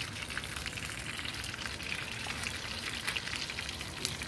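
Tilapia frying in hot oil: a steady sizzle full of quick crackling pops.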